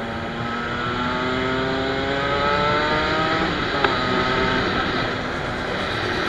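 125 cc motorcycle engine accelerating, its pitch rising steadily for about three seconds, then a sharp click about four seconds in as the pitch drops: a shift up a gear. Steady wind and road noise lies underneath.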